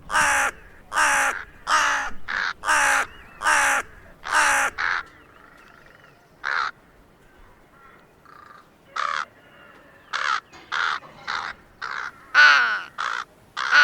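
Crow cawing: a quick run of about seven caws, one roughly every 0.7 s, then a quieter pause broken by two single caws. About ten seconds in, another fast run of caws begins.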